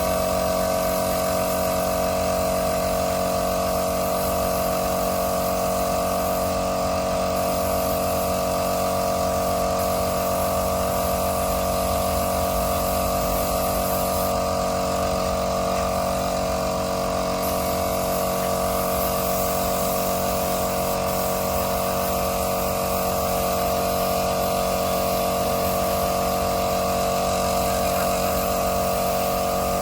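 A motor-driven machine running at a steady speed, with a constant whine.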